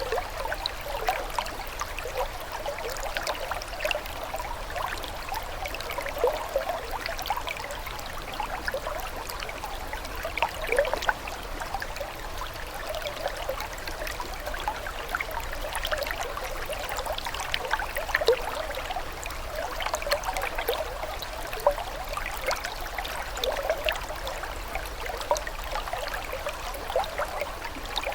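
Flowing water trickling steadily, with many small bubbling splashes, like a shallow stream.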